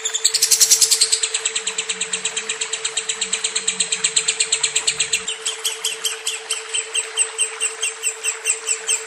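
Lovebird singing a long, unbroken trill of rapid high chirps, several a second, with a steady low hum underneath.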